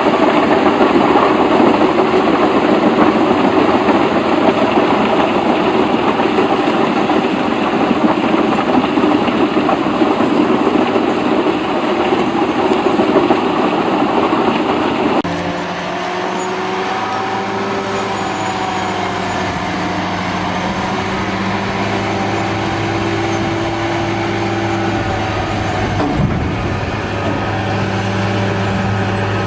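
Heavy machinery running: for about the first half, a dense, noisy mechanical clatter; then, after an abrupt cut, a steady engine drone with a low hum, and a single knock near the end.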